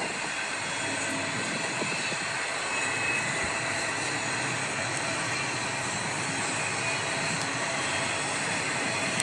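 Intermodal freight train rolling past, a steady noise of steel wheels on rail with faint, thin high tones over it.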